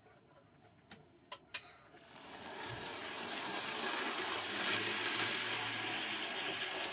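A few light clicks, then a model railway locomotive's small electric motor whirring as it runs along the track, growing louder as it comes closer.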